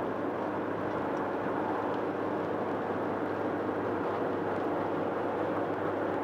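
Steady road and tyre noise heard inside a car's cabin while driving at highway speed.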